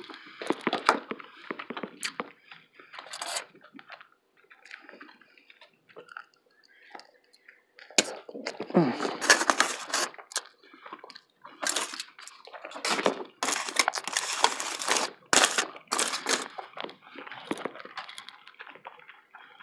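Close-miked chewing and wet mouth sounds of a person eating, coming in irregular spells with quieter pauses between them.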